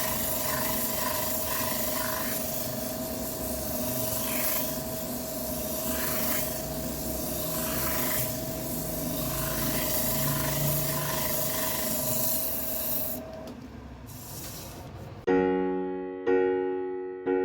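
Wood lathe running with a steady whine while the spinning wooden bowl is rubbed with a rasping sound, as in sanding. Near the end the rubbing stops and piano music begins.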